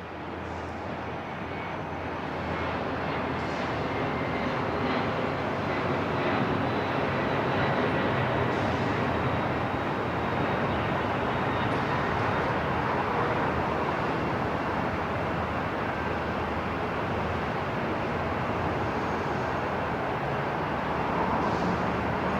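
Airport ambience: a steady, even noise with a few faint high whining tones, fading in over the first several seconds and then holding level.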